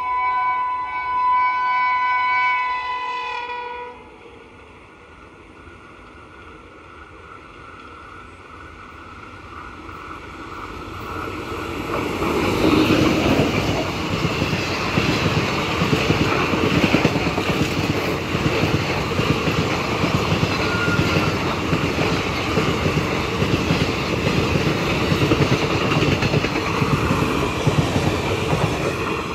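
An Indian Railways express train's horn sounds a long steady chord that cuts off about four seconds in. The rumble of the approaching train then builds, and from about twelve seconds its coaches pass at high speed, loud, with wheels clattering on the rails.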